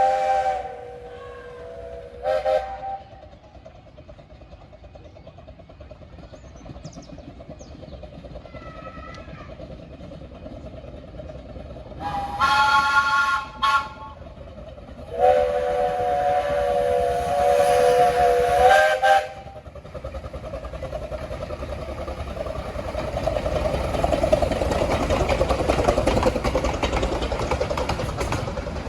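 Miniature 15-inch-gauge railway locomotives sounding chime whistles: two short blasts, a higher-pitched blast near the middle, then a long lower blast. After it a train approaches and runs past, its rumble building to a peak near the end.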